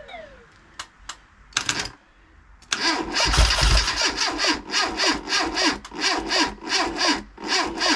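Starter motor cranking a freshly rebuilt classic Mini 1380 A-series engine on its first start attempt, with the even pulsing of compression strokes, about two to three a second, and the engine not catching. A couple of short clicks and a brief burst come first, then the cranking starts a little under three seconds in.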